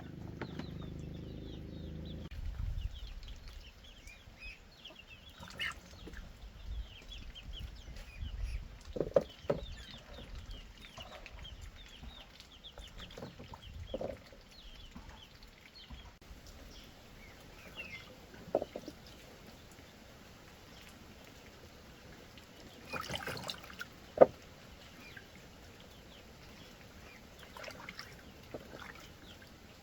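Chickens clucking, with many short high peeps scattered throughout, and a few sharp knocks, the loudest about three-quarters of the way through.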